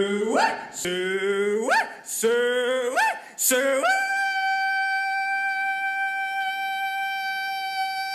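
A person hog calling: several short yelled calls that each slide sharply up in pitch, then one long high call held at a steady pitch for about four seconds.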